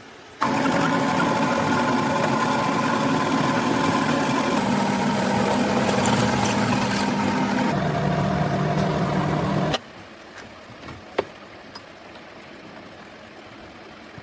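A motor-driven workshop machine running with a steady, pitched hum that steps down in pitch twice, then stops abruptly, followed by a few faint clicks.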